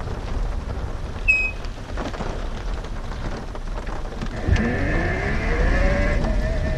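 Heavy rain and wind noise from a storm. About four and a half seconds in, a thump, then an electric motor whine that rises in pitch and levels off, like the PEBL pedal car's electric assist motor pulling away.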